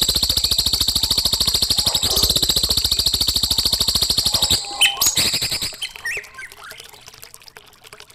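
A songbird's rapid, buzzing trill of fast even pulses, stepping up slightly in pitch about two seconds in and stopping after about four and a half seconds, followed by a few short separate chirps that fade toward the end.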